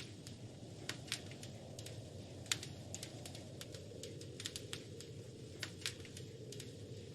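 Wood fire crackling in a fireplace: irregular sharp pops and snaps over a low steady rumble, with one louder pop about two and a half seconds in.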